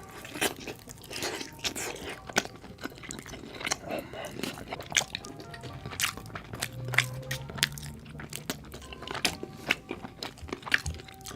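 Close-miked ASMR eating of chicken wings and ribs: crisp crunching bites and chewing, with many sharp clicks scattered irregularly throughout.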